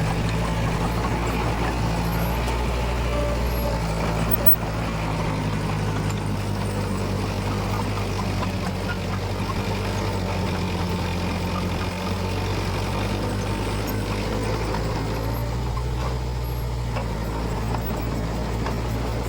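Heavy diesel engine of earthmoving machinery running steadily, its low note shifting slightly a few times as the load or throttle changes.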